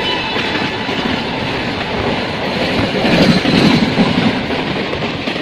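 A freight train of tank wagons rumbling and clattering past on the adjacent track, heard at close range from a train's open doorway. The wheel clatter swells about three seconds in.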